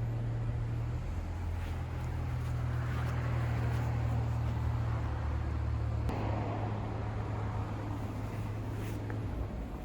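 Subaru Legacy 3.0R flat-six engine idling through an aftermarket Wangan muffler and Kakimoto mid-pipe: a steady low exhaust note. It stops near the end as the engine is switched off.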